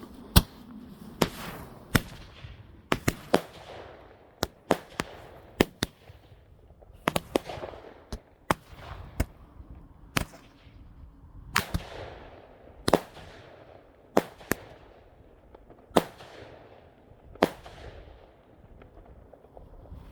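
Consumer firework cake firing: a string of sharp bangs at irregular intervals, roughly one a second, each trailing off in a fading echo.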